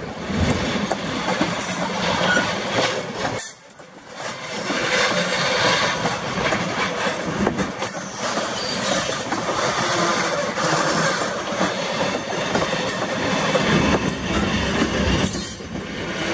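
Freight train of tank cars rolling past, its steel wheels rumbling and clacking on the rails. The sound dips briefly about three and a half seconds in.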